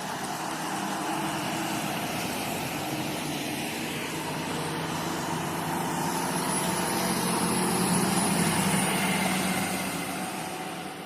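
A heavy diesel road vehicle, a bus or lorry, approaching and driving past with its engine humming. It grows louder to a peak about eight seconds in, then fades as it moves away.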